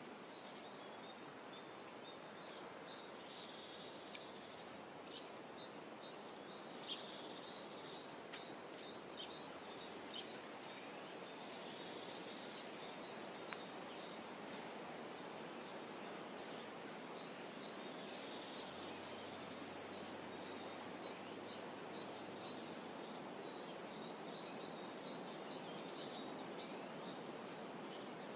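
Small birds chirping in repeated trains of short, high notes over a steady, soft wash of outdoor background noise, with a few faint clicks.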